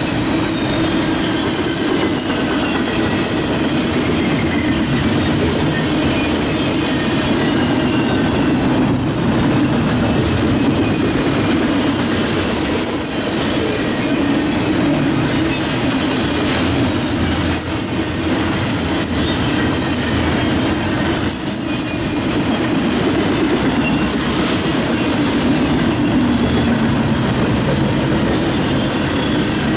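Norfolk Southern double-stack container train rolling past, a continuous steady rumble of wheels on rail with faint high wheel squeals that slide up and down in pitch.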